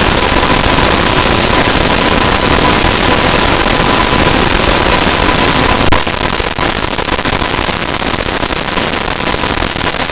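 Loud, heavily distorted electronic noise, crackling throughout, with a steady high tone running through it. It drops slightly about six seconds in and cuts off abruptly at the end.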